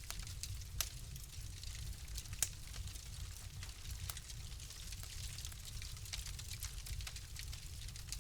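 Fire in a fireplace crackling with irregular sharp pops, two louder pops about a second in and about two and a half seconds in, over a steady low rumble.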